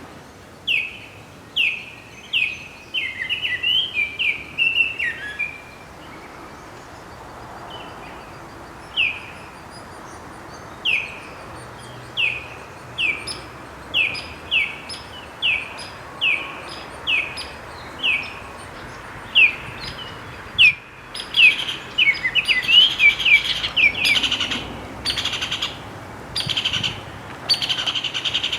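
A bird calling a long series of short, downward-slurred notes about once a second, broken twice by quick chattering runs.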